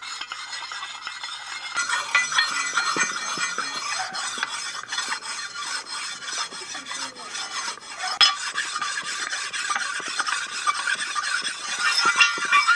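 A whetstone rubbed back and forth over the sliding edges of a Fortis No 11 bench vice to smooth them: an irregular gritty scraping, heavier from about two seconds in.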